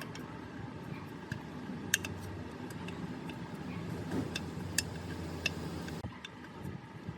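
A machine running with a steady hum and scattered sharp metallic clicks, cutting off suddenly about six seconds in.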